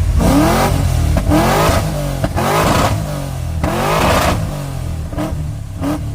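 Car engine revved in a series of quick blips, about one a second, the pitch climbing with each rev over a deep idle, getting quieter toward the end.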